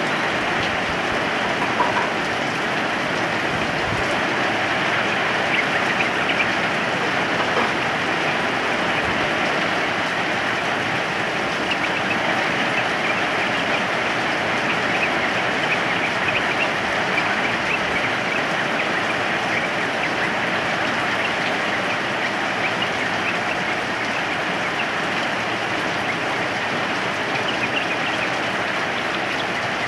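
Steady rain, with faint short sooty-headed bulbul calls now and then.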